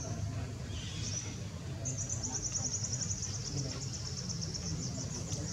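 A bird gives a high, rapid trill of about nine notes a second, starting about two seconds in and running to the end, after a couple of short high chirps. A steady low rumble lies underneath.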